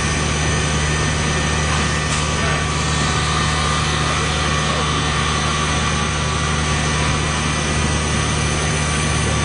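Industrial machinery running with a steady low hum and a faint, constant high whine over an even mechanical noise.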